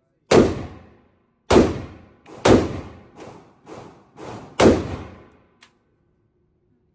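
Gunshots fired one at a time: four loud reports roughly a second apart, with several fainter shots between them, each echoing and dying away.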